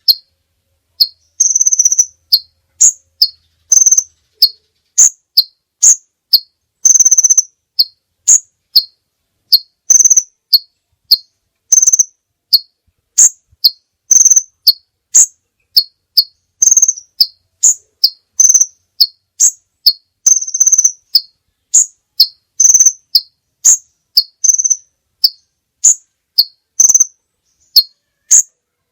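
High-pitched animal calls repeating about twice a second, a buzzy note alternating with short sharp chirps and clicks, with clean silence between the calls as in an edited tutoring (masteran) recording.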